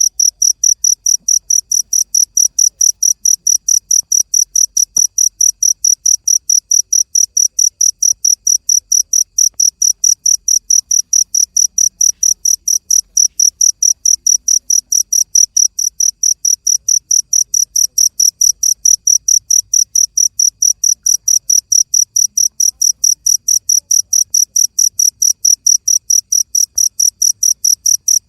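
A cricket chirping steadily: short, high, clear chirps repeated evenly about three to four times a second.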